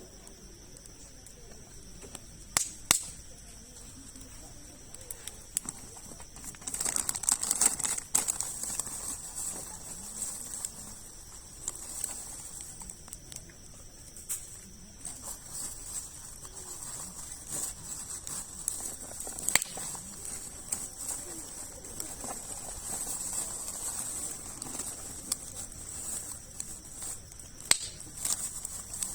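Campfire of large logs crackling, with scattered sharp pops and a denser run of crackling about seven seconds in; the loudest single pops come about three seconds in and near the end.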